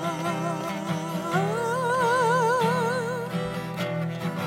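A song: a voice holds a long sung note with wide vibrato, sliding up to a higher held note about a second and a half in, over steady guitar accompaniment.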